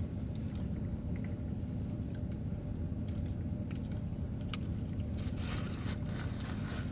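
Steady low rumble inside a car cabin, with scattered small clicks and a brief rustle a little after five seconds in, such as takeout food being handled and eaten.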